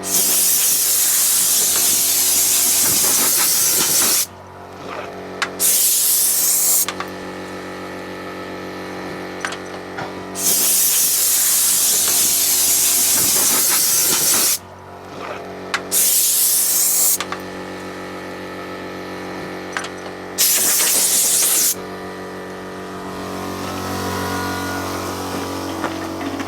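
Compressed air hissing from an air hose into a tractor tyre in five bursts of one to four seconds, each starting and cutting off sharply, over a steady motor hum.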